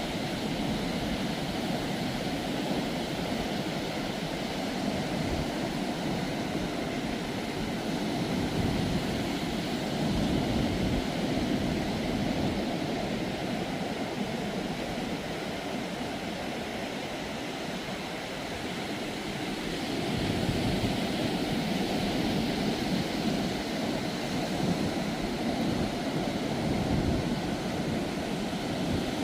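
Ocean surf breaking and washing up the beach, a continuous rushing that swells louder about a third of the way in and again through the last third as waves come in.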